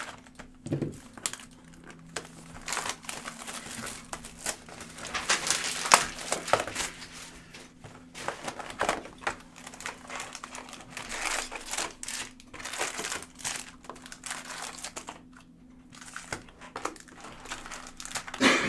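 Trading-card pack wrappers being torn open and crinkling, in an irregular run of crackles and short tearing rasps as packs are ripped and handled.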